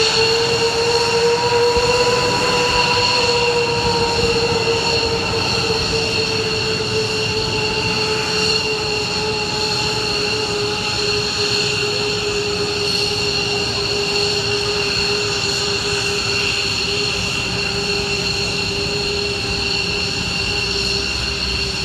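F-15 fighter's jet engines running with a loud, steady whine made of several held tones. The pitch rises a little over the first couple of seconds, then slowly settles lower.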